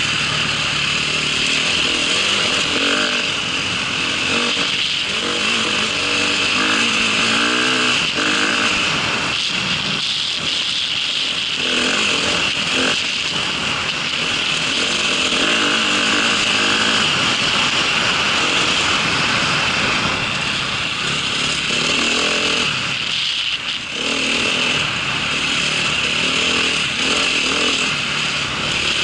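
Off-road motorcycle engine running under load while riding, its pitch rising and falling over and over as the throttle opens and closes. It eases off briefly near the end.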